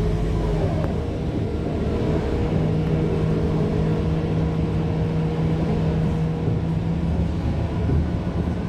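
Scania K230UB city bus under way, heard from inside: a steady engine drone with road rumble. A steady higher whine runs through most of it and drops out a couple of seconds before the end.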